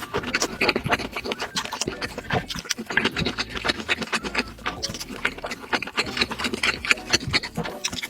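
Close-miked eating: chewing and wet mouth sounds, a dense run of small sticky clicks and smacks.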